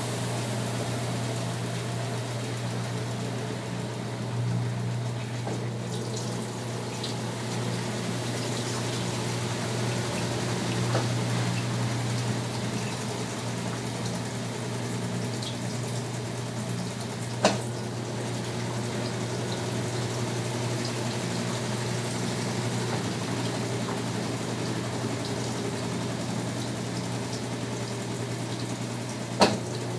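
Brastemp washing machine with water running through it over a steady electric hum from its pump or valve. Two sharp clicks come about halfway through and again near the end.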